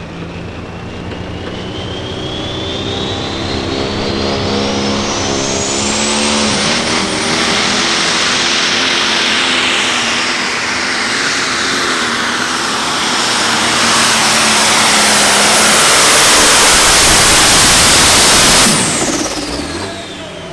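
Light Pro Stock diesel pulling tractor under full load on a pull, its turbocharger whine rising steadily in pitch over the first several seconds as the engine grows louder. About nineteen seconds in the engine drops back sharply and the whine falls away.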